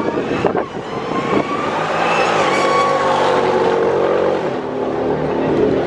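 A drag car's engine at full throttle, passing at speed: it swells to its loudest around the middle, with its pitch dropping as it goes by.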